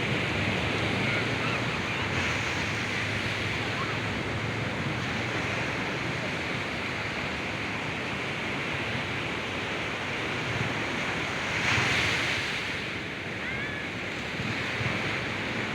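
Ocean surf washing onto the beach, a steady rush with one stronger wave about twelve seconds in, with wind on the microphone.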